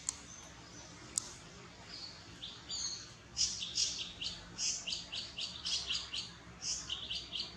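A bird chirping: a rapid run of short, high notes, several a second, starting about two and a half seconds in. Two sharp clicks come before it, in the first second or so.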